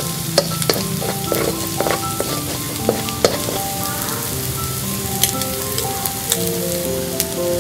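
Scrambled egg and chili-garlic paste sizzling in a wok, with a slotted plastic spatula scraping and knocking against the pan several times in the first three seconds or so.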